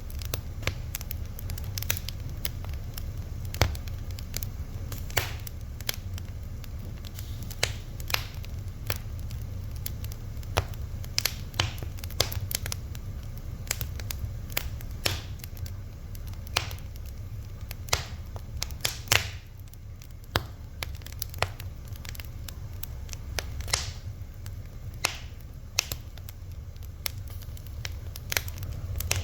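A fire crackling, with irregular sharp pops several times a second over a steady low rumble.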